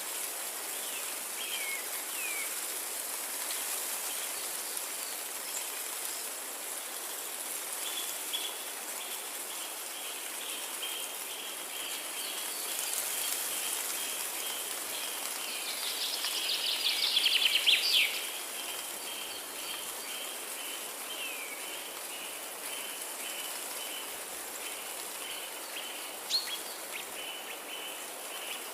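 Forest ambience: a steady hiss with birds calling. A few quick downward-sliding chirps come at the start, then a long run of rapid, evenly repeated high notes. A louder, buzzy rattling call about two-thirds of the way through is the loudest sound, and there is a single sharp click near the end.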